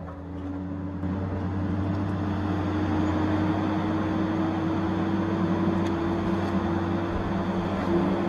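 Tigercat 870C feller buncher's diesel engine running steadily at working revs; it gets louder about a second in, then holds an even drone.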